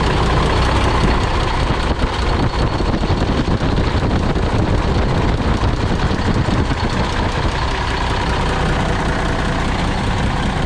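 Freightliner truck's diesel engine idling steadily just after a cold start at about −19 °C, after thawing, with summer-grade mineral oil in it.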